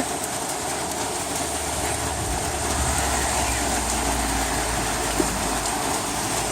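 Heavy rain pouring steadily, with a low rumble swelling in about two seconds in and holding.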